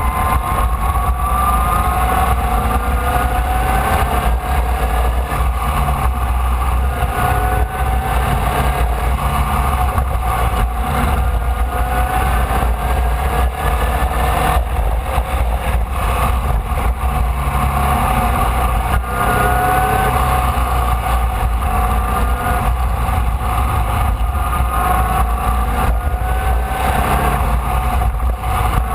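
Air-cooled Volkswagen flat-four engine of a Formula Vee race car, heard from on board under racing load. Its pitch climbs again and again and falls back at each gear change or lift, over a steady low rumble of wind on the microphone.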